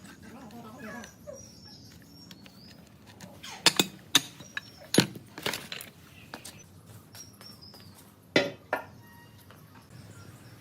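A run of sharp knocks and clicks, bunched a few seconds in and twice more near the end, over faint high chirps.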